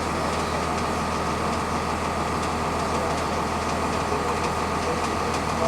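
Cummins ISC inline-six diesel engine of a 2002 Blue Bird CS transit bus running steadily, heard from inside the passenger cabin.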